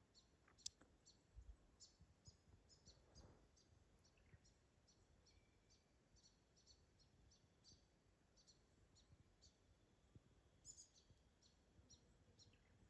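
Near silence, with faint high-pitched bird chirps repeating a few times a second and a couple of soft low thumps in the first few seconds.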